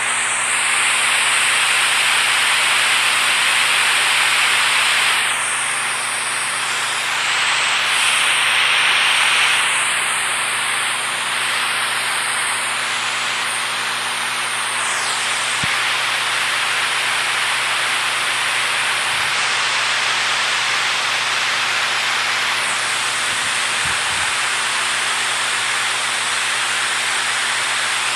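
Water rushing steadily, an even hiss with no breaks, dipping slightly and swelling again a few times.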